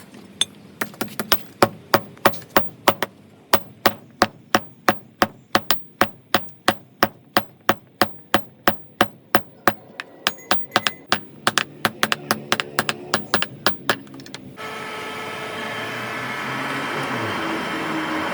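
A long run of hammer blows, about three a second and fairly even, typical of hammering metal into shape for a knife. About fourteen seconds in the blows stop and a steady machine noise takes over.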